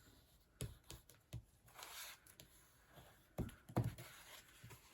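Quiet handling of a folded paper card: a few soft taps and knocks against the table and a short papery rub as the fold is pressed down.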